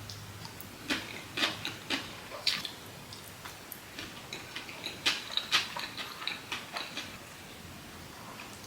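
Close-miked eating sounds: irregular wet mouth clicks and chewing smacks, coming in two clusters, about a second in and again about five seconds in.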